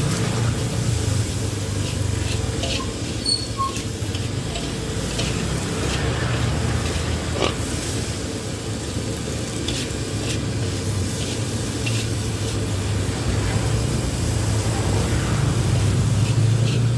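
Nasi goreng frying in a wok, a steady sizzle with a low rumble underneath and scattered clicks of the spatula against the wok.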